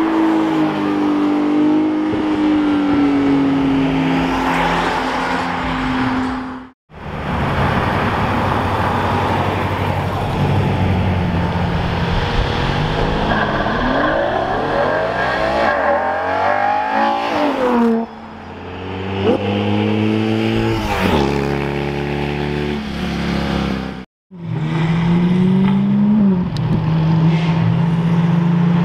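Ferrari supercars accelerating hard past one after another, including a Purosangue's V12 and a 458 Italia's V8. The engines rev with rising pitch and step through gear changes, each car loud as it goes by. The sound cuts off abruptly twice, about 7 s and 24 s in.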